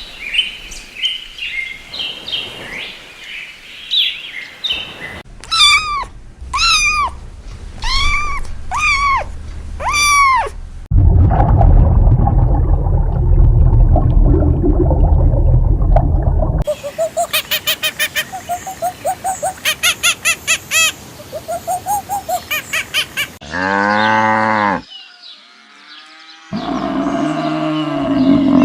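A run of different farm animal calls, one clip cut after another: chirping calls, then five arched calls, a loud noisy stretch, a quick string of repeated calls at about three a second, and pitched calls near the end.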